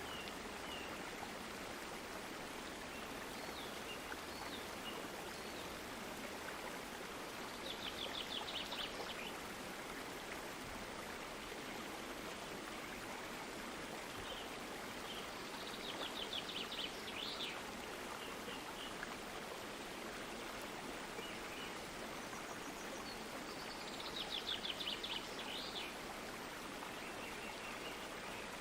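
Stream water flowing steadily, with a bird singing three short bursts of rapid, high repeated notes over it, about a third of the way in, near the middle and shortly before the end.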